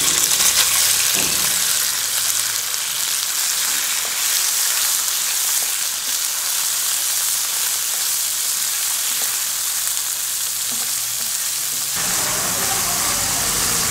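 Boneless chicken pieces frying in hot oil with chopped garlic in a nonstick pan, a steady sizzle, stirred with a wooden spatula.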